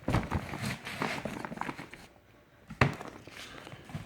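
Cardboard fireworks cake boxes being handled and moved: a run of knocks, scrapes and rustles, with one louder thump a little under three seconds in.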